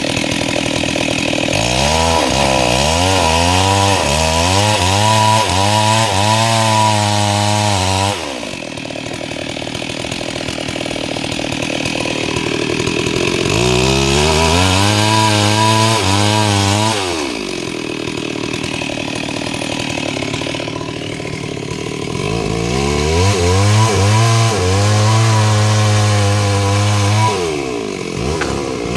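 STIHL MS 382 two-stroke chainsaw running at high throttle while ripping mahogany. Three times its note drops lower and wavers for several seconds as the chain works through the wood, then it lifts again between cuts.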